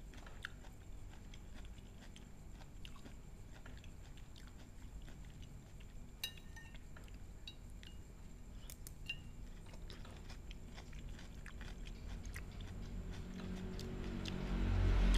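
Close-up eating: a person chewing soft boiled cucumber, with a few light clicks of a metal spoon against a china plate. Near the end a louder low sound swells in.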